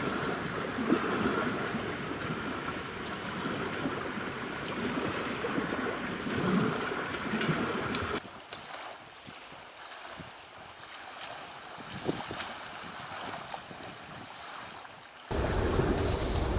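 Steady rushing outdoor noise like wind, with scattered faint crackles. It drops abruptly to a quieter hiss about eight seconds in and jumps back up, louder, near the end.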